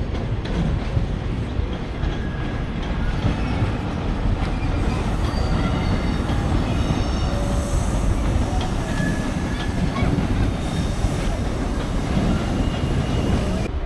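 Train moving through a railway station, its wheels squealing in several high tones over a steady low rumble.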